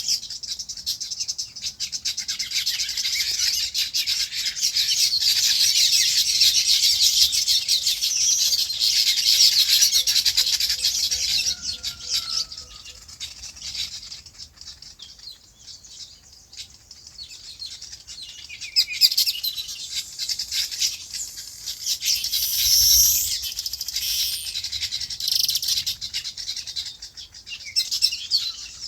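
A flock of small birds chirping in a dense, busy chorus that thins out about halfway through, followed by a few louder, separate calls near the end.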